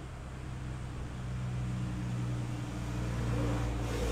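Steady low machine hum with a few held low tones, growing a little louder near the end.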